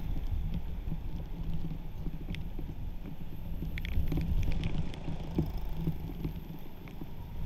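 Wind buffeting the microphone as a low, rough rumble, with a few sharp clicks about four seconds in.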